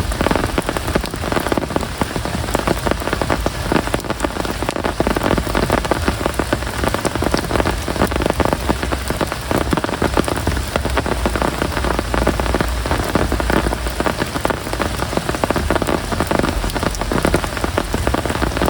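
Steady heavy rain falling, a dense hiss with a constant patter of drops hitting surfaces.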